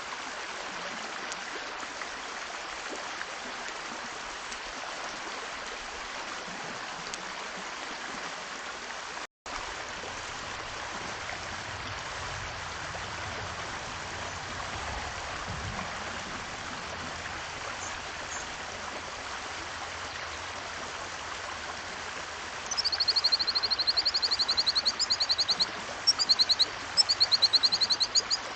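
Steady rushing background noise, broken by a momentary dropout about nine seconds in. For the last several seconds a bird sings a fast run of high, repeated notes, louder than the background.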